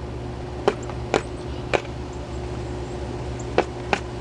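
About seven sharp, irregularly spaced knocks over a steady low hum.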